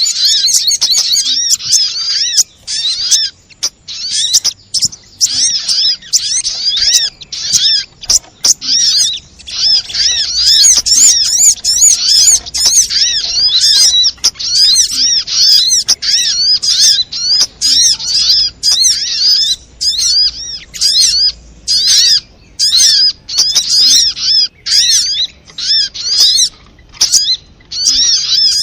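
Sogon (sogok ontong) bird calling in a rapid, excited run of high, sharp chirps and twittering trills, in bursts a second or two long with short breaks between them, a recording made to lure and stir other sogon into singing.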